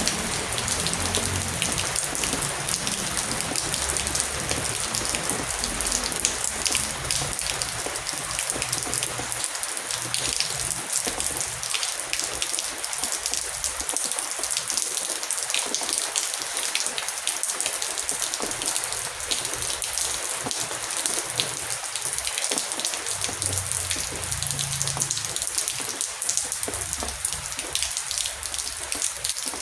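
Heavy rain falling steadily: an even hiss with countless separate drops ticking through it. A soft low rumble comes and goes beneath it, near the start and again late on.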